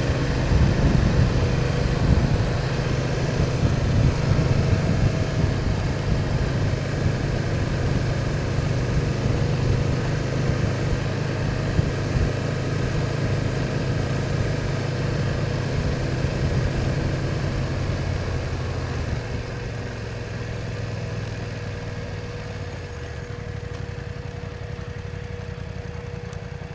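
BMW R1200's boxer twin engine running under way, with wind and road noise around the helmet camera; it settles and grows quieter in the last several seconds as the bike slows.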